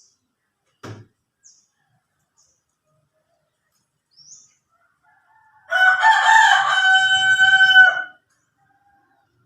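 A rooster crowing once, a single drawn-out crow of about two seconds starting about six seconds in. A short knock is heard about a second in.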